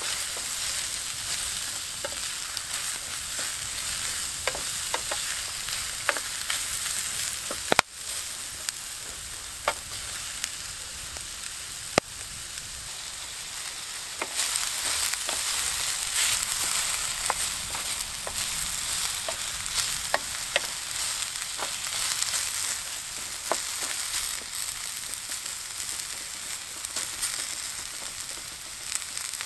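Sliced onion and red pepper sizzling in oil in a steel pan over a campfire, stirred with a wooden spoon. The sizzle is a steady hiss, with sharp clicks here and there.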